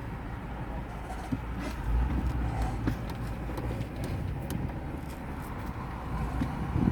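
Truck driving: a steady low engine and road rumble that grows louder about two seconds in, with scattered light knocks and rattles.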